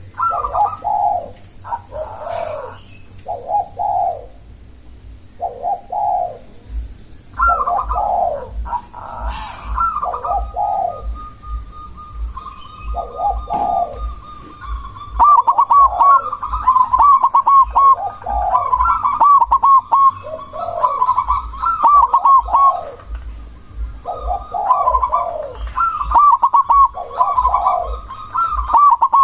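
Zebra dove (perkutut, black cemani form) cooing loudly in repeated phrases of rolling coos, the phrases coming faster and more densely from about halfway on. A faint steady high-pitched whine runs underneath.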